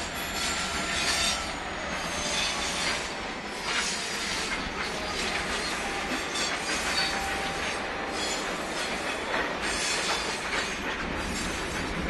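Cement hopper wagons of a freight train rolling past, wheels clacking irregularly over the rails with faint wheel squeal now and then.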